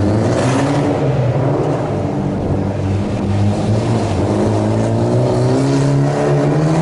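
Car engine held at high revs, its pitch wavering up and down and climbing near the end, as the car slides around on wet pavement, with bursts of hiss.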